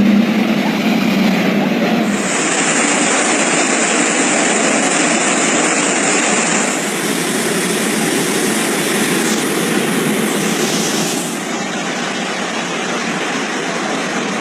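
Loud, steady rush of fast-flowing floodwater. The sound changes abruptly about 2, 7 and 11 seconds in.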